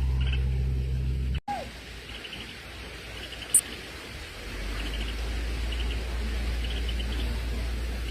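Small birds chirping in short repeated trills over a faint low rumble. A steady low hum runs for the first second and a half, then cuts off abruptly. There is one sharp high click about halfway through.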